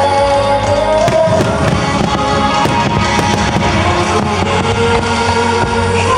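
Fireworks display bursting and crackling over music, with a run of sharp cracks about one to three seconds in.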